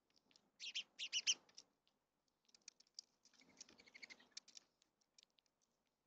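Small birds at a seed feeder chirping faintly, in short high calls among light clicks and taps. There is a dense cluster of chirps about a second in and another run of chirping around three to four seconds.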